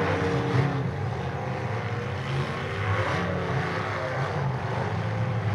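Demolition derby car engines running together in a steady low drone.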